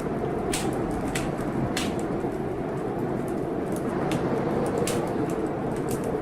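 Blizzard wind blowing steadily outside a window, a low continuous rush, with a wood fire in a fireplace crackling in sharp, irregular pops, about half a dozen of them.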